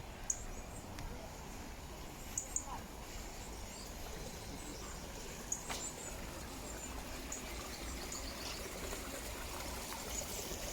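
Short, high bird chirps now and then over a steady outdoor hiss with a low rumble of wind.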